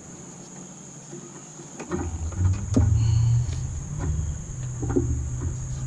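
Steady high-pitched insect drone. From about two seconds in, a low rumble is joined by several scattered knocks.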